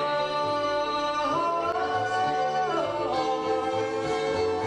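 Live bluegrass band playing a country ballad, with a voice singing long held notes that slide from one pitch to the next over string-band accompaniment.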